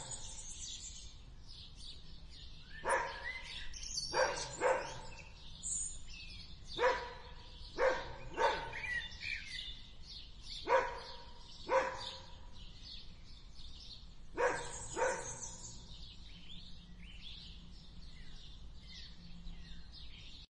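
A dog barking in short sharp barks, singly or in pairs, about ten in all, with the barking stopping about fifteen seconds in. Birds chirp faintly in the background.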